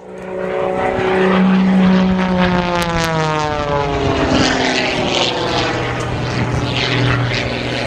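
Airplane flying past, its engine drone sliding steadily down in pitch over the first few seconds as it goes by.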